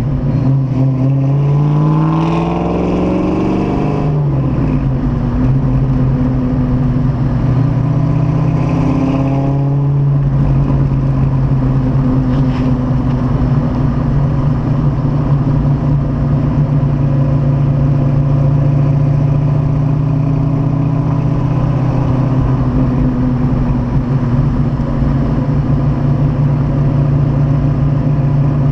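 Freshly rebuilt Ford 5.0 small-block V8 of a 1990 Mustang, bored out to 311 cubic inches with a Comp XE274HR cam and an off-road H-pipe, running through its break-in miles. The engine climbs in pitch, drops at a gear change about two seconds in, climbs again, shifts once more near ten seconds, then settles into a steady cruise.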